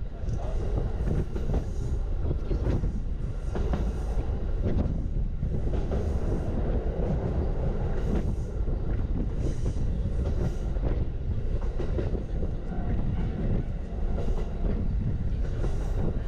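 Norokko sightseeing train rolling along the line: a steady rumble of wheels on rails, with occasional clacks from the track, heard from a passenger car.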